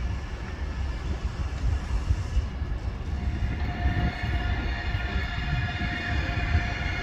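ICE high-speed train pulling into the platform: a steady low rumble, joined about three seconds in by a steady high-pitched whine as it draws near.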